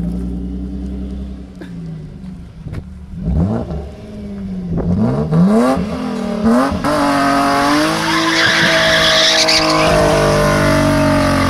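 BMW E36's engine revving up and down several times, then pulling long and high under hard acceleration, with tyres squealing briefly near the end.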